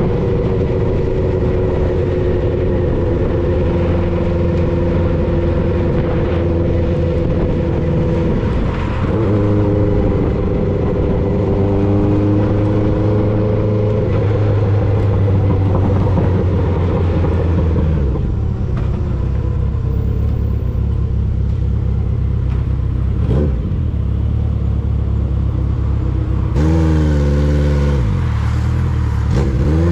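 1995 Honda CB750 Nighthawk's air-cooled inline-four running through a Vance and Hines 4-into-1 exhaust while riding. The engine holds a steady note for long stretches with a few changes in pitch, then its revs rise and fall quickly near the end.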